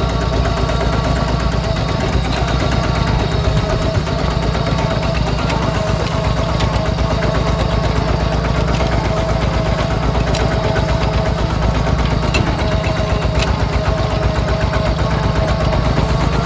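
Yanmar diesel engine of a homemade mini tractor running steadily with a fast, even low chugging.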